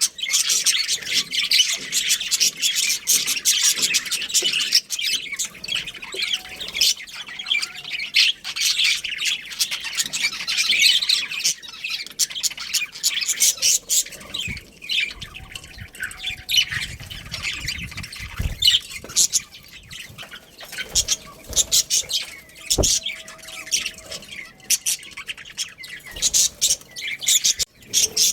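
A flock of budgerigars chirping and squawking in rapid, continuous chatter, busiest in the first half.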